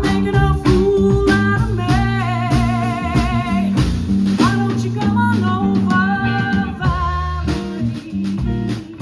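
A live band playing a song: drum kit, bass and guitar, with a held melody line that wavers with vibrato.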